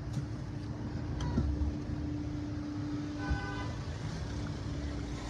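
Motor vehicle sound with a long steady droning tone, and a short horn-like toot about three seconds in.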